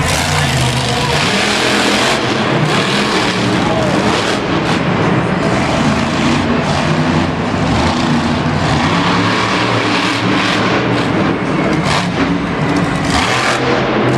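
Monster truck engine running loud, its pitch stepping up and down as it revs.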